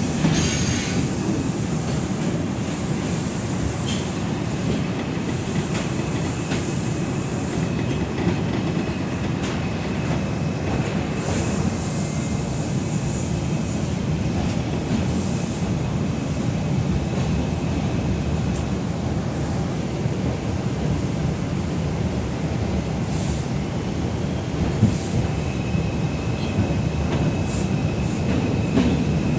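R142 subway car running between stations, heard from inside the car: a steady rumble of wheels on the rails with light clicking over rail joints, short high wheel squeals now and then, and a faint steady whine through much of it.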